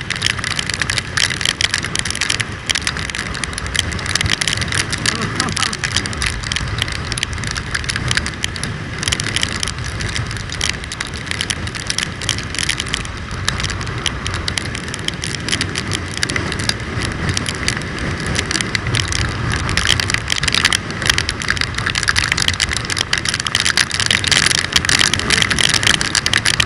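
Motorcycle riding at speed in the rain: steady wind and road noise with the engine underneath, and rain spattering in quick ticks on the microphone.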